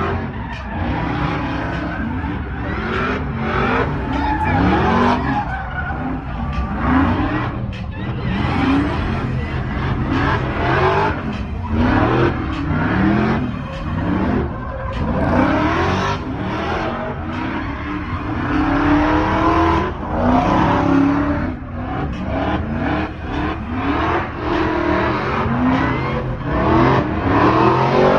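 Car engines revving hard with tyres squealing, the engine pitch sweeping up and down again and again.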